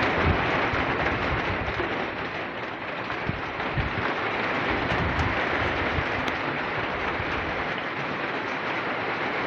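Heavy rain falling in a steady hiss, with irregular low rumbles underneath.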